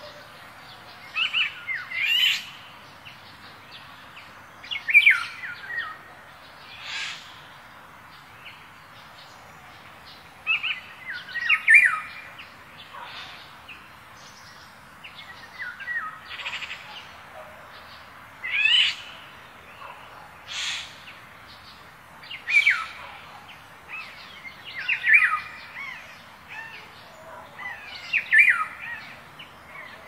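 Songbirds chirping and calling in short, quick phrases that sweep up and down in pitch, one every two to three seconds, over a steady background hiss.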